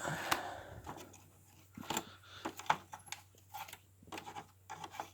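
Scattered small clicks and rustles of string being pulled off a vacuum cleaner's brush roll by hand, with a brief scraping rustle at the start that fades within a second.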